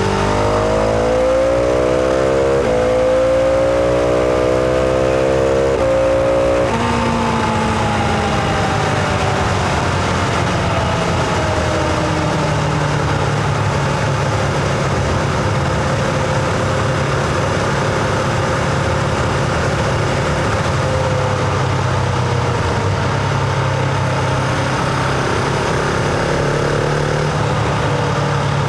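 Husqvarna Vitpilen 701's single-cylinder engine heard onboard while riding, accelerating hard with a rising pitch and a short break about three seconds in. About seven seconds in the pitch drops sharply, then falls slowly as the bike rolls off, before picking up briefly again near the end.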